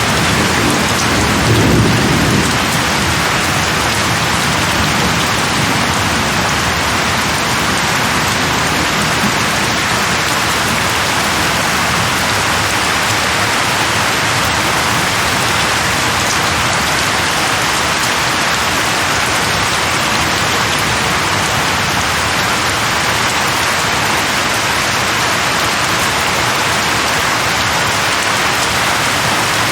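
Steady rain falling on leaves, with a short low rumble of thunder about a second or two in.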